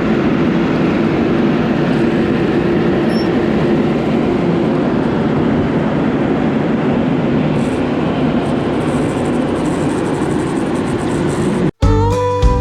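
Heavy farm machinery running steadily in a field, a loud even drone with a faint steady hum. Near the end it cuts off abruptly and country music with guitar and fiddle begins.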